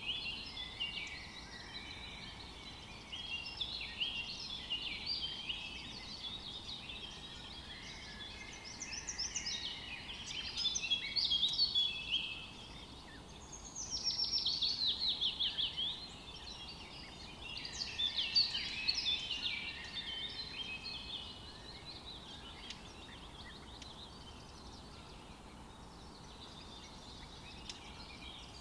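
Forest songbirds singing, several at once, in quick overlapping chirps and trills over a faint steady hiss. Around the middle comes a fast trill of rapidly repeated falling notes, the loudest song in the stretch.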